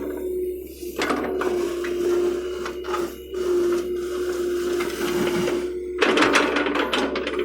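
John Deere excavator working: its engine and hydraulics run with a steady whine, broken by loud bursts of clatter about a second in and again near the end.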